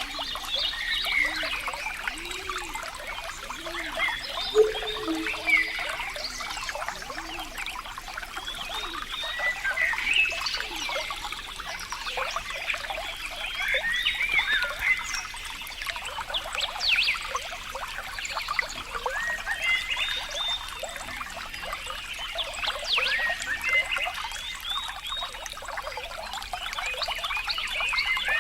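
Water trickling and dripping with many short, high animal calls over it, and a series of low, repeated calls in the first six seconds or so.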